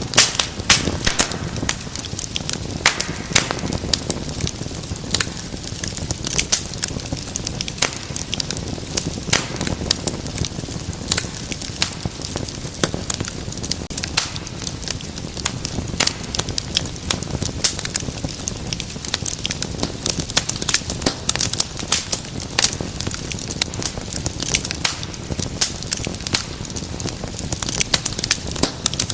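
Wood fire in a fireplace crackling, with many sharp irregular pops and snaps over a low steady rumble of flame.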